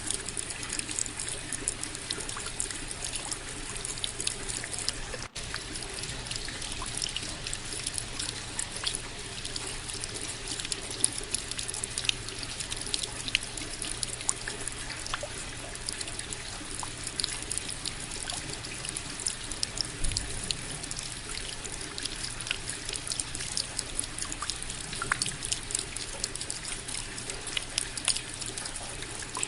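Rain falling steadily, many separate drops heard as fine ticks over an even hiss. The sound cuts out for an instant about five seconds in.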